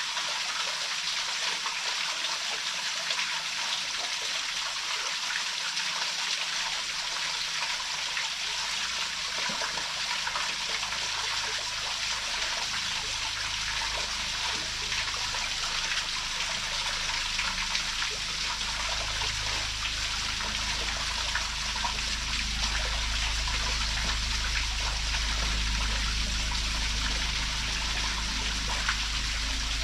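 Waterfall splashing steadily, an even hiss of falling water. From about a third of the way in, a low rumble builds beneath it and grows stronger toward the end; the uploader guesses an airplane is heard in the recording.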